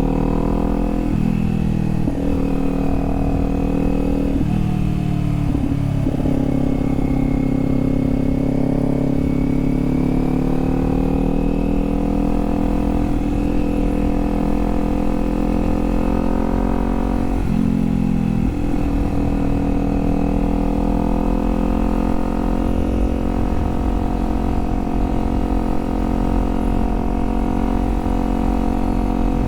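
Kawasaki Z400's parallel-twin engine running under way, heard from the rider's helmet. The engine note breaks and jumps in pitch several times in the first six seconds and again about 17 seconds in, with long stretches of steady or slowly rising pitch in between.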